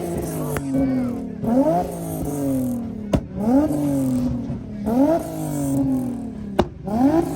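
Car engine revved over and over, each rev rising quickly in pitch and sinking back, about every second and a half, with a few sharp cracks in between.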